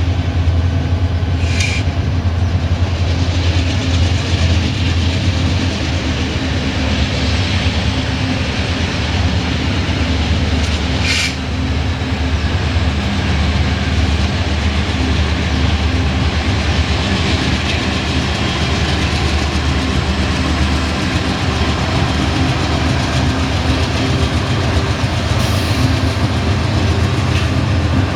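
Freight train pulling away, its diesel locomotives running under load with a steady low drone and the rumble of rolling cars. Two sharp clicks stand out, about two seconds in and again about eleven seconds in.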